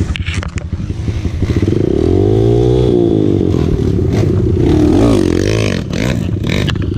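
Dirt bike engine running and revving, its pitch rising and falling about two seconds in and again around five seconds. There are rattling clicks near the start and near the end.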